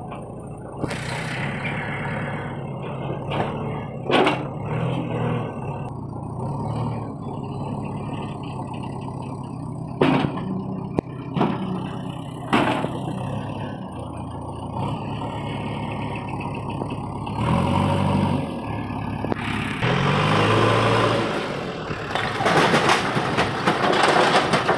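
A JCB 3DX backhoe loader's diesel engine runs under load and revs up several times as the machine works, most strongly near the end. Several sharp knocks cut through, mostly in the first half.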